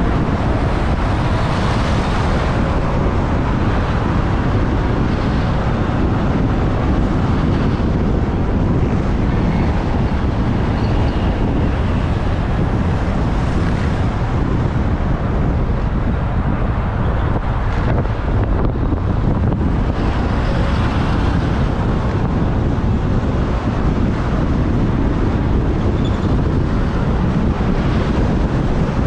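Steady wind rushing over the microphone of a moving motorbike, with the motorbike's engine and road traffic running underneath.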